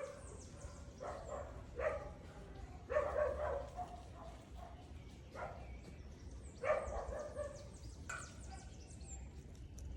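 Faint animal calls: a series of short pitched calls every second or two, with many quick high chirps over them.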